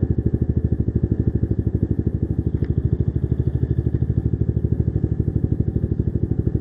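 Baodiao BD250-5 motorcycle engine idling steadily with an even, rapid beat of about a dozen pulses a second.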